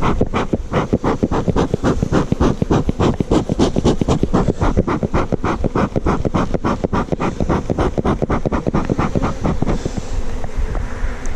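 Rapid, irregular rustling and scraping close to the microphone, several strokes a second, easing off about ten seconds in.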